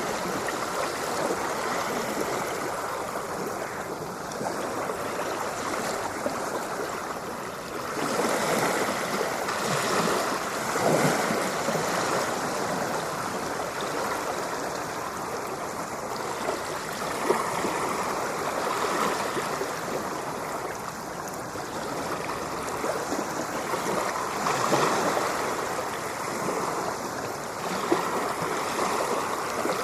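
Ocean surf: a continuous wash of moving water that swells and eases every few seconds as waves come in.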